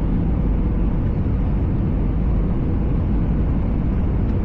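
Airbus A320 cabin noise on the approach to landing: a steady roar of the jet engines and rushing air, heaviest in the low end, with a faint steady hum running through it.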